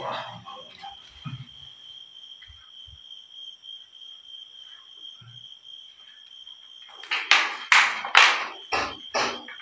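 Night insects trilling steadily at a high pitch. About seven seconds in comes a quick run of about five loud, short rustling bursts.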